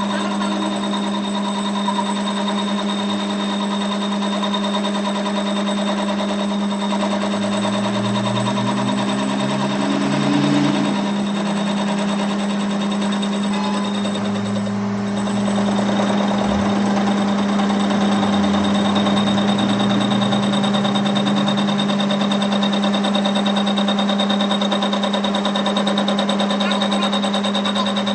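Workshop machinery running steadily: a constant loud hum with a rapid rattle over it, a little louder from about halfway in.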